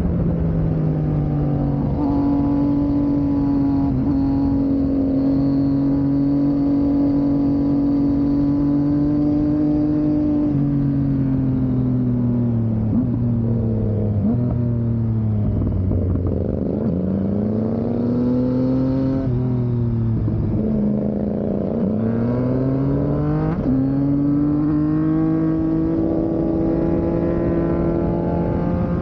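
Two Yamaha motorcycles, an MT-09 inline-three and an MT-07 parallel twin, ridden together under load, their two engine notes heard at once. Both pull up through the gears with a step in pitch at each shift, drop away through the middle as the riders ease off, then climb again.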